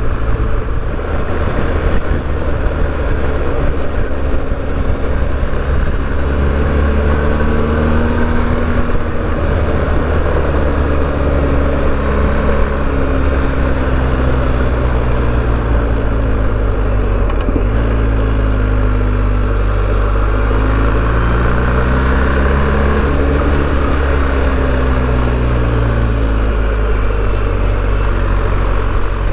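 BMW R 1250 GS boxer-twin engine running under way, its pitch rising and falling repeatedly as the rider accelerates, shifts and eases off through bends. Steady wind and road rush lies underneath.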